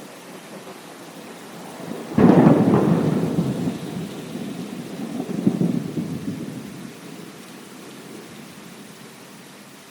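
Thunderclap over steady heavy rain: a sudden sharp crack about two seconds in rolls into a rumble that swells again about three seconds later and fades out, leaving the rain hiss.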